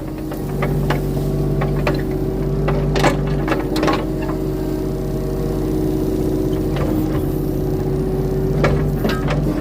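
Skid steer's diesel engine running steadily under load while pushing a tree, with a few sharp knocks or cracks over the top.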